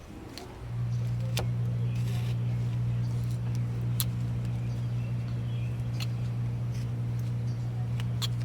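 A steady low machine hum, like an engine or motor running, starts abruptly about a second in and holds an even pitch. Over it come a few faint sharp clicks of the carving knife cutting wood.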